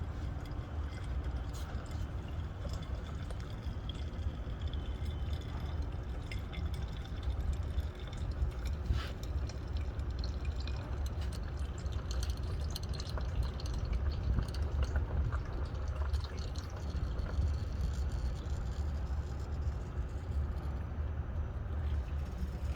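Engine oil pouring from a 2015 Toyota 4Runner's open oil pan drain into a drain pan in a steady stream, over a steady low rumble.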